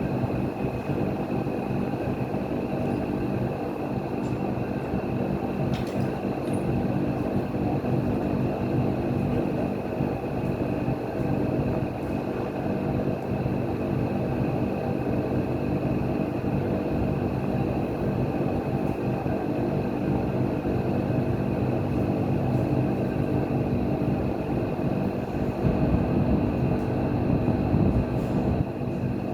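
A machine running steadily with a constant hum, a little louder near the end.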